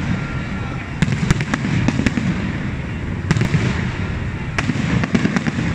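Fireworks display going off: a rapid, irregular run of bangs and crackles over a steady low rumble.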